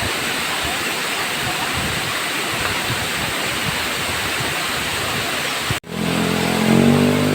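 Waterfall rushing steadily. About six seconds in, the sound cuts off abruptly and is replaced by a louder low drone whose pitch falls slightly.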